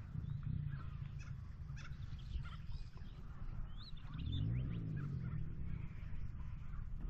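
Birds chirping and calling in short scattered notes over a steady low rumble, with a low hum that rises and falls about four seconds in.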